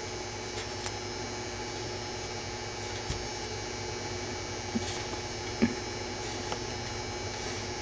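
Steady electrical hum with a few faint, sharp clicks scattered through it.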